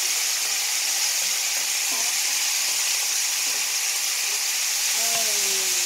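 Pork pieces sizzling steadily in hot oil in a cast-iron skillet.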